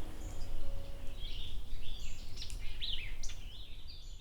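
Songbirds calling, a run of short high chirps and a few quick downward-sweeping notes, over a steady low rumble.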